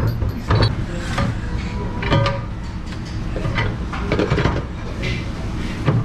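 Dishes and dish racks knocking and clattering as they are handled in a restaurant dish pit, about half a dozen separate knocks over a steady low machine hum.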